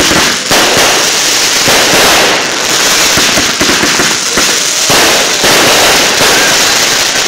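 Fireworks going off close by: loud, dense crackling and hissing packed with sharp pops, without a break.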